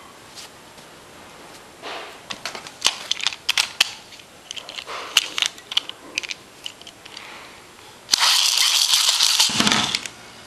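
Plastic Beyblade rev-up launcher and top being handled: scattered sharp clicks and rattles, then a sudden loud whirring rattle of about two seconds near the end that cuts off abruptly.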